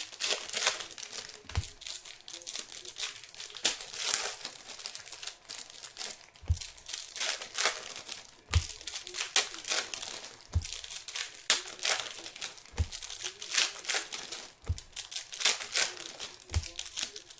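Plastic wrapping on trading card boxes and packs crinkling and tearing as they are opened and handled, a steady run of sharp crackles, with about seven dull knocks spread through it.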